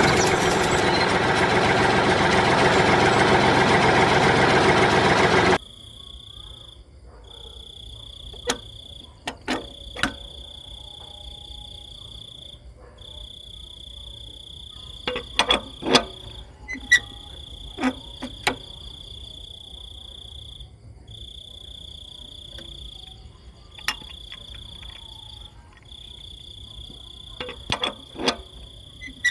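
A loud even rushing noise that cuts off suddenly about five seconds in. After it, an insect trills repeatedly in high-pitched phrases of one to two seconds with short gaps, over scattered sharp clicks and taps.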